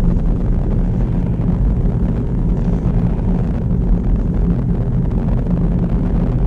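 Inside a moving petrol car: steady engine hum and road rumble, with no change in pitch.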